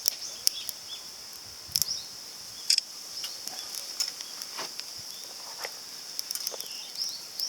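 Steady high-pitched chirring of insects, like a cricket chorus, with scattered sharp clicks and taps over it, a few of them standing out loudly.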